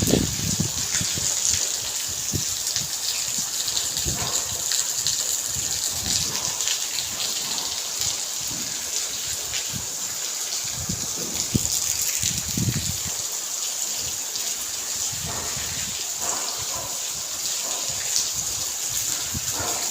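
Heavy rain falling, with water pouring and splashing steadily and irregular heavier splashes throughout.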